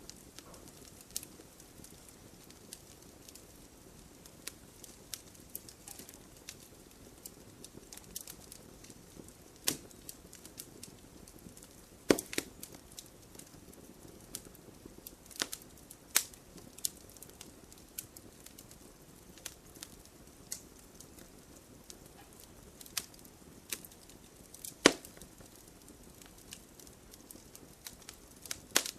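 Wood campfire crackling: irregular sharp pops and snaps over a faint steady hiss of burning, with a few louder pops about twelve seconds in and near twenty-five seconds.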